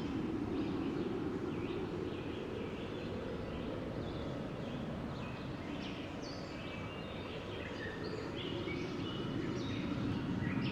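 Steady wind blowing, with small birds chirping many times over it; the wind swells a little near the end.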